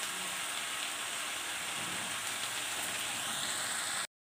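Mustard oil sizzling steadily as potato and eggplant sticks and small mourala fish fry in an iron kadai over low heat. The sizzle cuts off for a moment near the end.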